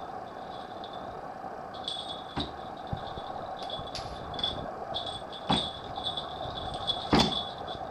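A toy sparrow gives off a high electronic chirp in short, irregular bursts, over a steady hum. A few sharp knocks come as it is batted about, the loudest near the end.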